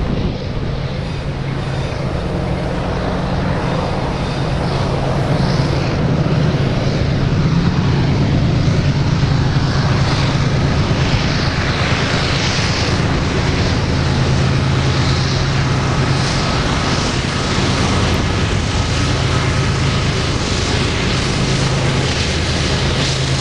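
BNSF freight train passing close, diesel locomotive engines giving a steady low drone over continuous wheel-on-rail noise.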